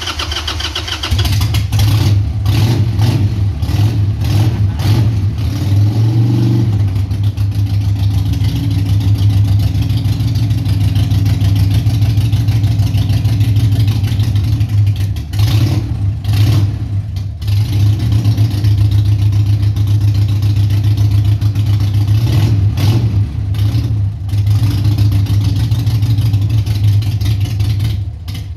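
Harley-Davidson Sportster 883's Evolution V-twin running on choke just after starting, now firing again after a no-spark fault. A steady idle with a brief rev about six seconds in.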